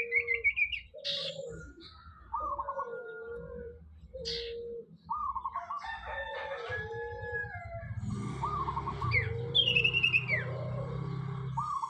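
Young cage bird, a cipow (common iora), practising its song: short repeated phrases, each a quick warble followed by a held lower note. A low steady hum comes in about two-thirds of the way through.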